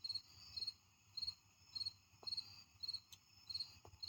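An insect chirping in a steady rhythm: short, high, trilled pulses, a little under two a second, over a faint background hum.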